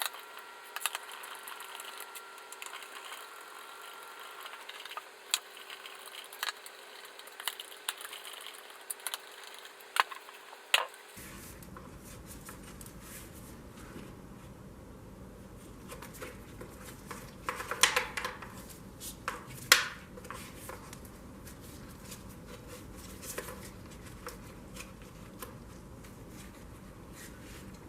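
Scattered light clicks and taps of small parts and hand tools being handled, with a few sharper knocks just before halfway and again about two-thirds of the way through.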